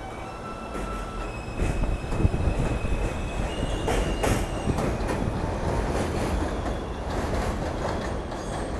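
An F subway train's steel wheels rumbling over the rails, getting louder about a second and a half in. High thin wheel squeals come and go in the first half, with repeated clicks over rail joints throughout.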